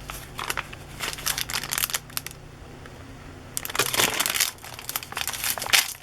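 Paper pages of a thick handmade junk journal rustling and crinkling as they are turned and handled, in two spells with a short quiet pause around the middle.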